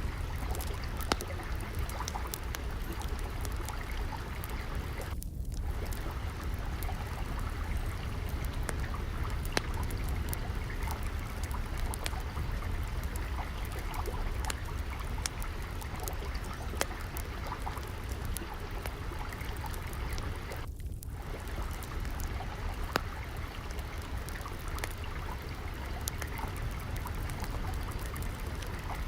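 Steady flowing, trickling water with a low rumble, layered with the scattered pops and crackles of a wood fire burning in a fireplace.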